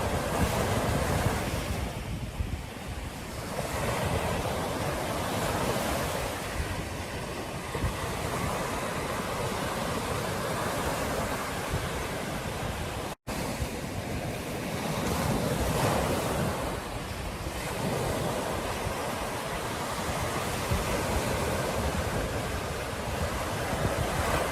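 Ocean surf washing onto a beach in slow swells, with wind buffeting the microphone. The sound cuts out for an instant a little past halfway.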